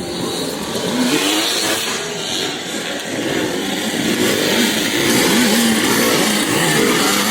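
Several vintage motocross dirt bikes racing on the track, their engines revving up and down in overlapping, shifting pitches. They get louder about four seconds in.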